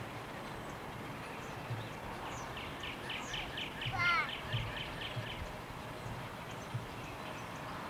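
A bird trilling, a quick run of short high notes about five a second for around three seconds, with a short call about halfway through. A few dull knocks come from pieces of split firewood being handled.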